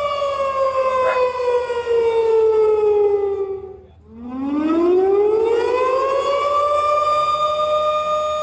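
Outdoor civil-defense warning siren sounding during a tornado warning. Its wail falls in pitch over about four seconds and fades almost out, then rises again and holds steady on its high note.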